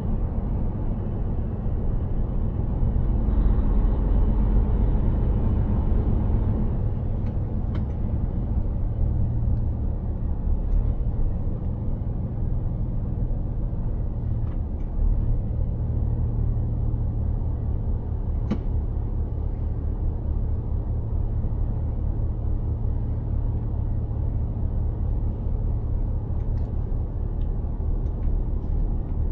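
Mercedes-Benz Actros 2763 truck's straight-six diesel engine running steadily under way, a low drone mixed with road noise, swelling briefly a few seconds in.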